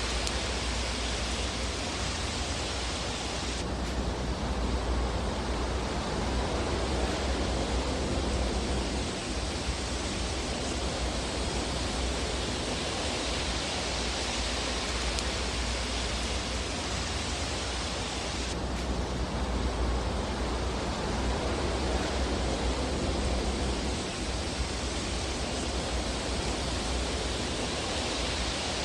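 Fireplace ambience: a steady rushing hiss over a low rumble, with no distinct crackles or pops. Its texture changes abruptly twice, about fifteen seconds apart, as where a looped recording repeats.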